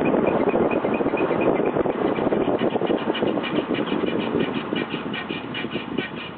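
BMW E46 325's brakes scraping in a rhythmic pulse several times a second, over road noise that gradually dies down.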